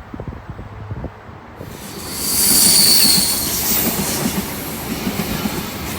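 V-set double-deck intercity electric train passing through the station, growing loud about two seconds in. Its wheels squeal high and steady for about a second, then a quick, even run of wheel clicks over the rail joints follows.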